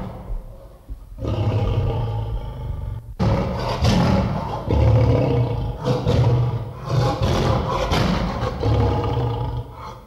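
Tiger roaring and snarling in long, rough calls: the first fades over the opening second, a second starts about a second in, and a longer run of roars and growls starts about three seconds in.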